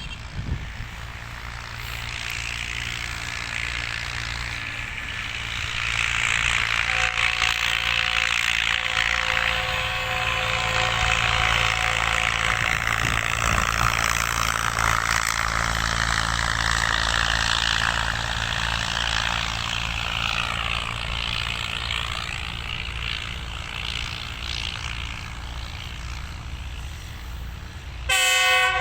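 Tezgam Express passenger train running, a steady rumble and rushing noise that grows louder about six seconds in. A train horn starts to sound at the very end.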